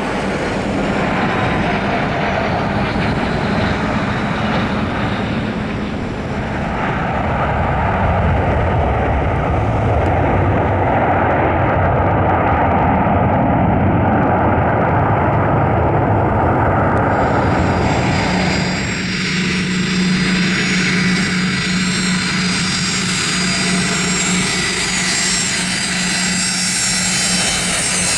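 Airplane engine running steadily, with a held tone and a steady noise; about two-thirds of the way through the sound shifts, and a low hum comes to the fore.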